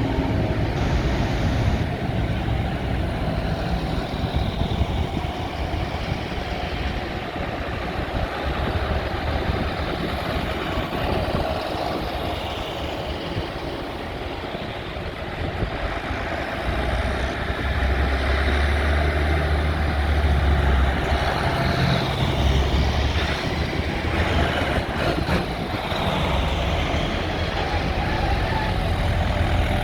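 Tractor engines running steadily as tractors drive past, with one engine growing louder and deeper for a few seconds past the middle.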